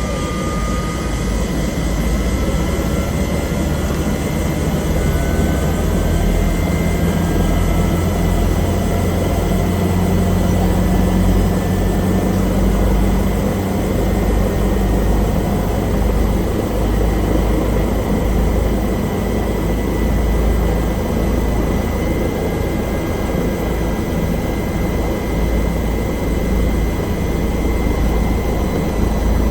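Bell helicopter's engine and rotor running steadily, a constant low drone with a thin high-pitched whine held above it.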